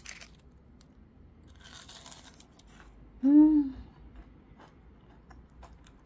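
Someone bites into and chews crispy battered deep-fried sweet potato, with a patch of crunching about two seconds in and small crackles through the rest. A short hum of a voice, the loudest sound, comes a little past three seconds.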